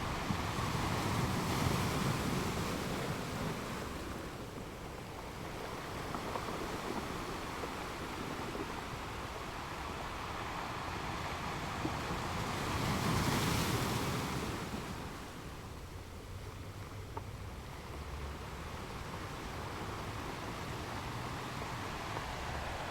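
Ocean waves washing ashore, a steady surf noise that swells and falls back, with one wave breaking in the first few seconds and a louder one a little past the middle.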